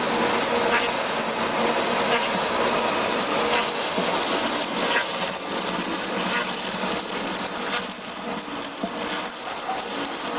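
Log-milling lathe running, its cutter head working along a timber with a steady noise and a faint motor hum, with short crackles throughout.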